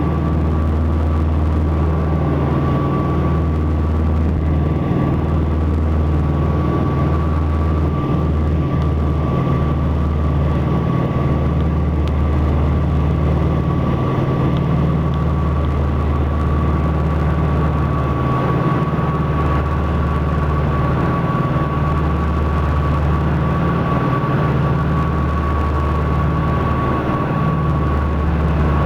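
Piper Seneca's twin piston engines and propellers droning steadily, heard from inside the aircraft, with a thin steady whine riding above the low drone.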